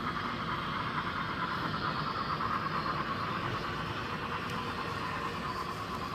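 Model train running steadily along the layout's track.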